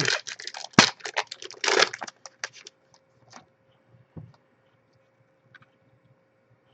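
Trading cards and their pack wrapper being handled: a quick run of crackling and clicking for about two and a half seconds, then only a few scattered soft clicks.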